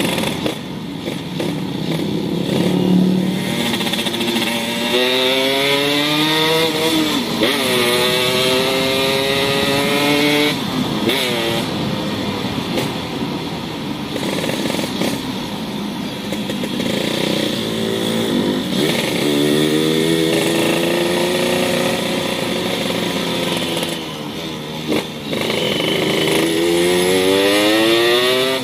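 Yamaha YT115 motorcycle running through a racing exhaust made from a used Yamaha RX King exhaust, accelerating several times: the engine note climbs in pitch over a few seconds, drops back, then climbs again.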